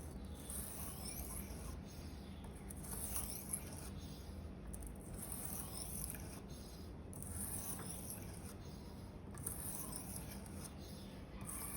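Blade of a 10 cm Victorinox paring knife being sharpened on a whetstone: a steady series of about six hissing scrapes, each lasting about a second with short pauses between strokes.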